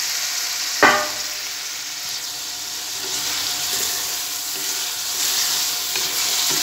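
Chopped tinda (round gourd) sizzling in hot oil and masala in a metal pan while being stirred with a spatula, with an even frying hiss. A single sharp, ringing clank comes a little under a second in.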